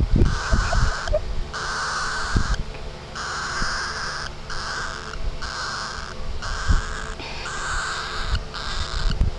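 Pet bird giving harsh, raspy calls over and over, about a dozen in a row, each lasting roughly half a second with short gaps between.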